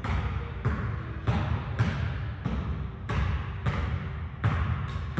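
Badminton rackets striking a shuttlecock in a fast doubles exchange: about nine sharp hits, one every half-second or so, over the low rumble of a sports hall.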